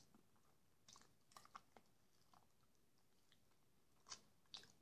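Faint chewing and soft wet mouth clicks of a man eating jellied meat (kholodets) off a fork, a few small sounds about a second in and again near the end, otherwise near silence.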